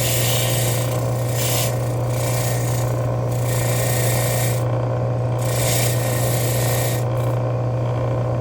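A motor-driven bench tool hums steadily while corroded metal from a car trunk lock is held against it, giving a rasping, rubbing noise in uneven strokes. The rasping drops away briefly about five seconds in and again for the last second or so, as the corrosion is being cleaned off.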